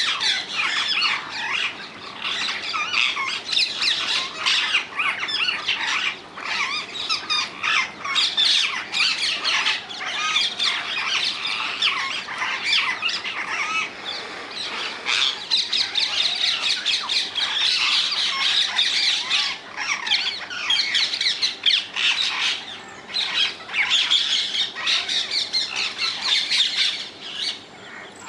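A flock of rose-ringed parakeets (Indian ringneck parakeets) squawking, many shrill calls overlapping without a break, thinning out near the end.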